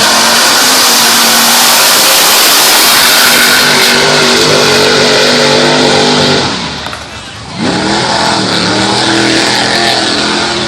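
Mud truck's engine running hard at high revs, with a wide hiss of spinning tyres and spray over it. It eases off briefly about seven seconds in, then revs back up with a rising pitch.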